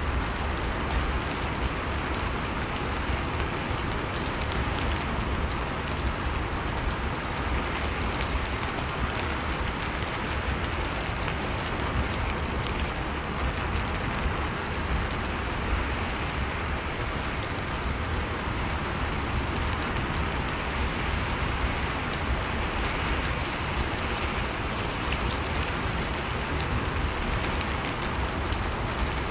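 Steady rain falling, an even hiss with many small droplet ticks pattering on a surface, along with a low rumble.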